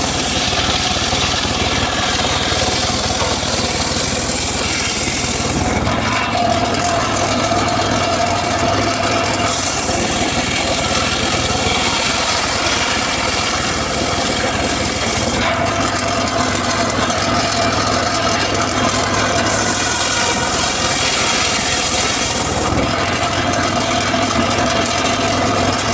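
Homemade circular saw running steadily with its blade cutting through mahogany wood. The high hiss of the cut swells and eases in about three long stretches over the machine's steady hum.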